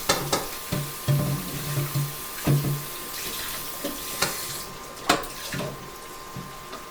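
Kitchen sink faucet running as carrots are rinsed under it, with a few knocks against the sink. The water noise fades out about four and a half seconds in.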